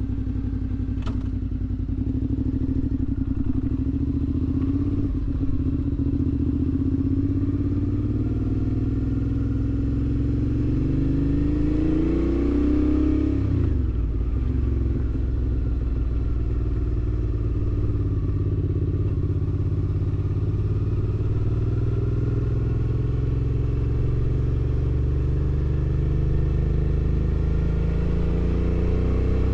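2019 Suzuki V-Strom 650's 645 cc V-twin running through a Delkevic exhaust with the baffle removed, while riding. The engine pitch climbs, drops sharply at a gear change about halfway through, then holds fairly steady at cruise, rising slightly near the end.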